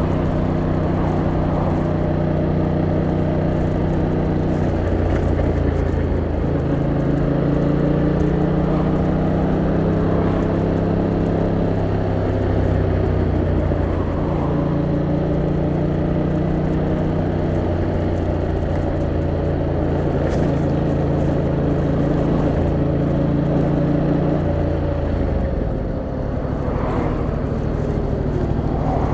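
Yamaha MT-07's 689cc twin-cylinder engine running under way, its note stepping up and down several times with throttle and gear changes. Near the end the pitch falls away as the bike slows.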